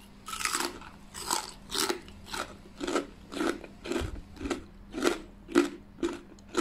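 Crispy deep-fried Thai pork belly (moo krob) being chewed: a regular run of crisp crunches, about two a second. The crunch shows the crackling skin fried fully crisp.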